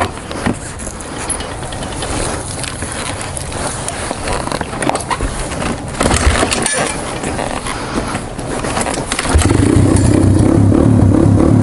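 Cold 1995 Honda XR200R's air-cooled single-cylinder four-stroke engine running roughly amid crunching handling noise, then revved up and held at higher revs about three-quarters of the way in, the loudest part. The engine is still too cold to hold an idle, so it has to be kept going on the throttle.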